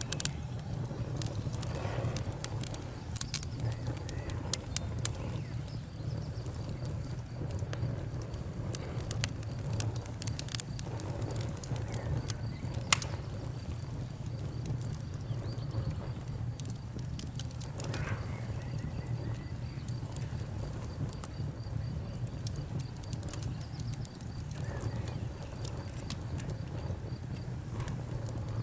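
Wood fire burning with a steady low rumble and scattered sharp crackles and pops, one louder pop about halfway through.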